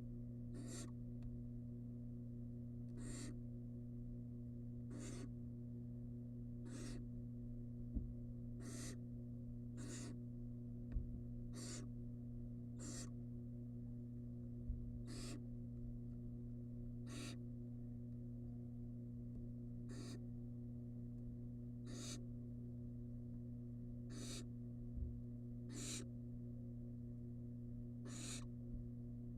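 Barn owl nestling giving short rasping hisses, the repeated begging call of the young, about one every two seconds over a steady electrical hum. A few low knocks are heard inside the nest box.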